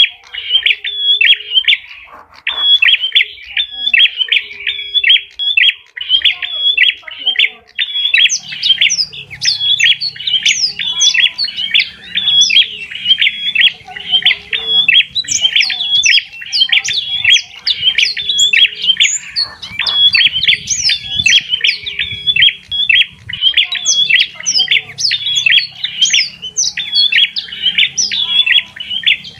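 Bird calling continuously in a fast run of short, repeated squawking notes. About a third of the way in, higher, sharper chirps join in over them.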